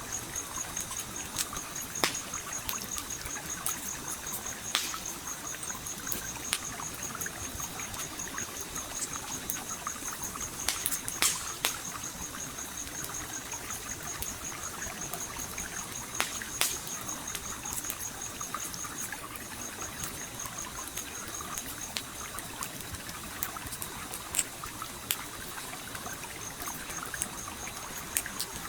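A campfire crackling, with scattered sharp pops, over a gently flowing stream. A high, rapidly pulsing trill runs behind them and breaks off briefly about two-thirds of the way through.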